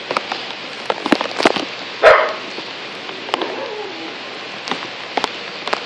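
Heavy rain shower falling steadily, with sharp drips tapping throughout. A dog barks once loudly about two seconds in, and a fainter call follows about a second later.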